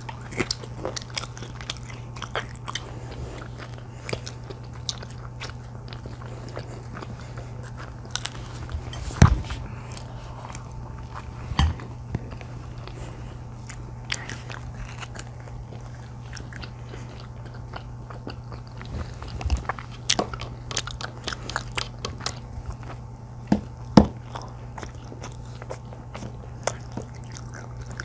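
Close-up eating sounds: bites into a crunchy pizza crust and chewing, with scattered crackles and a few louder crunches, over a steady low hum.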